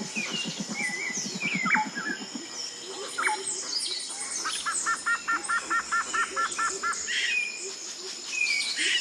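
Several wild birds calling: sharp sliding whistles and chirps, a fast low pulsing call in the first couple of seconds, and a run of about ten quick paired notes in the middle, over steady high background tones.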